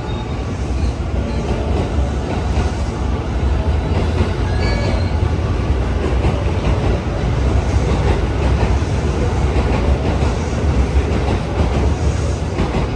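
Limited express Hida train rolling along the platform as it arrives, a steady low rumble with wheels clattering over the rail joints.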